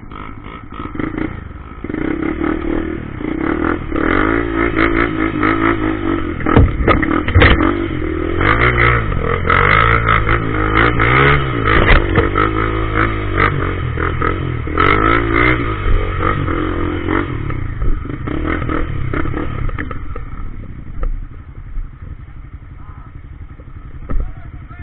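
Trail motorcycle engine revving up and down as the bike is ridden over rough ground, with rattling and knocks from the bike over the bumps. The engine eases off after about twenty seconds.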